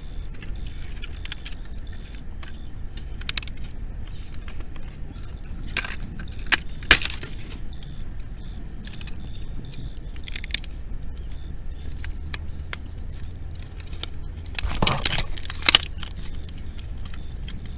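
Wood campfire crackling, with scattered small pops and a few sharper snaps, over a steady low rumble; about fifteen seconds in comes a louder cluster of knocks and crunches.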